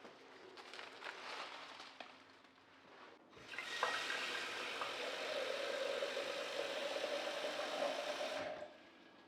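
Water tap running into a sink. It is turned on about three and a half seconds in, runs steadily for about five seconds and is shut off near the end, after some soft handling sounds.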